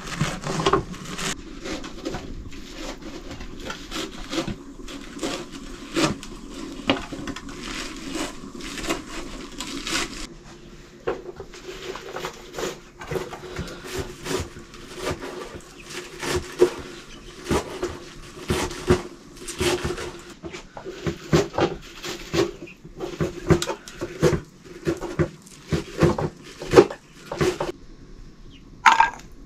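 Knife chopping on a wooden chopping board: irregular sharp knocks, a few a second, that stop near the end, followed by a single light clink.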